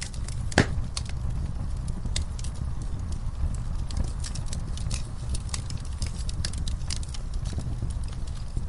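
Fireplace fire crackling: a steady low rumble of burning with many small sharp pops and one louder pop just over half a second in.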